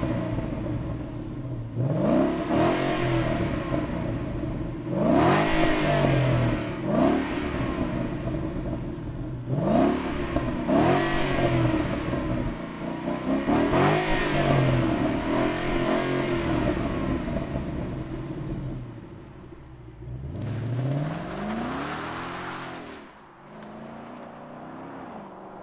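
Ford Mustang GT V8 on its stock exhaust being revved repeatedly while standing, each blip rising and falling back to idle a few seconds apart. Near the end one more rev, then the sound fades as the car pulls away.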